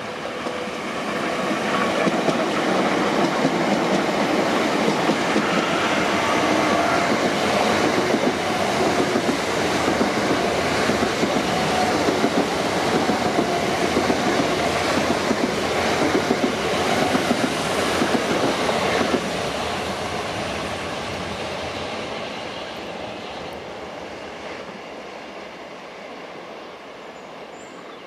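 Class 465 Networker electric multiple unit passing at speed, with the rumble and rapid clatter of its wheels on the rails. It swells up over the first couple of seconds, stays loud while the carriages go by, then fades away steadily for the last nine seconds or so as the train recedes.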